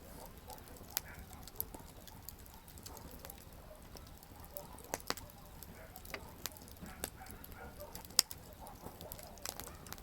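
Wood campfire crackling: irregular sharp pops and snaps scattered through, the loudest about eight seconds in, over a low steady rumble of the burning fire.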